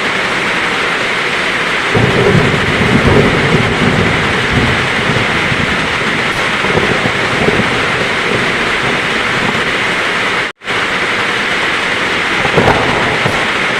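Heavy rain falling steadily, with a low roll of thunder rumbling from about two seconds in and a smaller rumble near the end. The sound cuts out completely for a split second about three-quarters of the way through.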